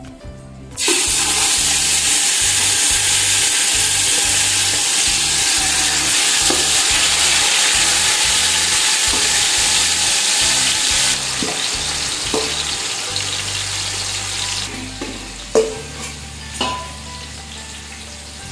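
Marinated chicken going into hot oil in a cooking pot, sizzling loudly as it starts suddenly about a second in, then easing off a little. A few knocks of a spoon against the pot near the end.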